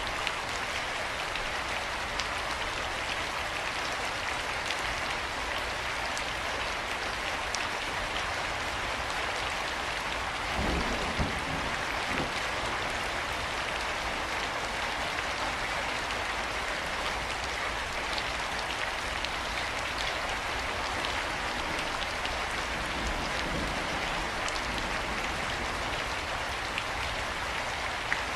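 Steady rain falling: an even hiss flecked with the ticks of single drops. A brief low rumble comes a little before the middle.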